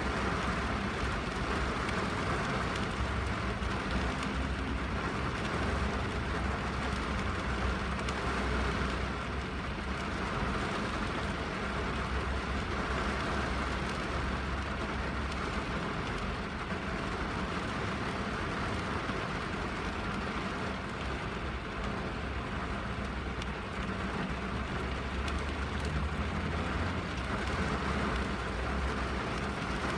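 Steady rain falling on a car, heard from inside the cabin: an even patter of drops on the roof and glass over a low, constant rumble.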